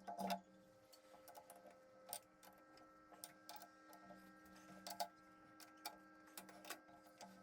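Near silence with faint, irregular light clicks and taps, one or two a second, like metal parts being handled while a lathe faceplate setup is being indicated, over a faint steady hum.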